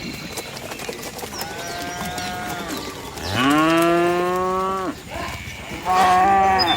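Cows mooing: a fainter moo about a second and a half in, then a loud, long moo that rises at its start and holds steady for nearly two seconds, and a shorter loud moo near the end.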